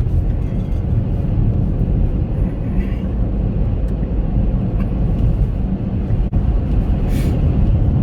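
Steady low road and engine rumble inside the cabin of a Chevrolet Captiva SUV while it drives along.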